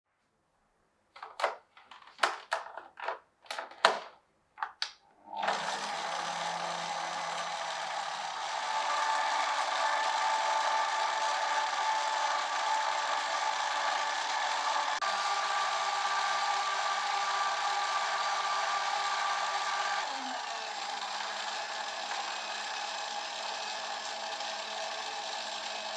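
Several short scraping strokes, then a small electric motor running steadily, a little louder for a stretch in the middle.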